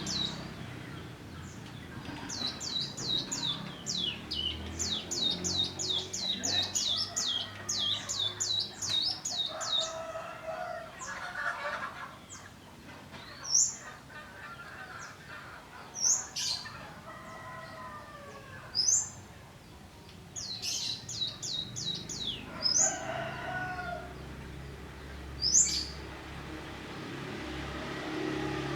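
A ciblek (prinia) chirping in fast runs of high, falling notes, about five a second, then single sharp rising notes: a bird practising its ngebrem calling display. Lower, arching calls from another bird come in between.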